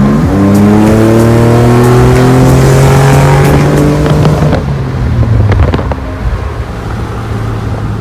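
Sports car engine at full throttle: the pitch drops with a gear shift just after the start, then climbs steadily for about four seconds. Around five seconds in the throttle is released, with a few sharp pops and clicks, and the engine settles to a lower, quieter run.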